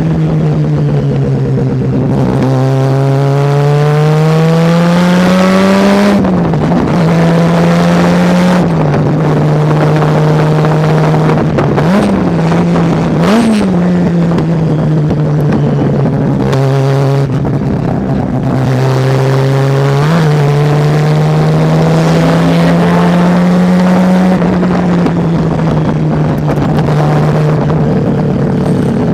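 Mazda RX-7 rotary engine under racing load, its note climbing slowly for several seconds at a time and dropping sharply at each gear change or lift, about seven times.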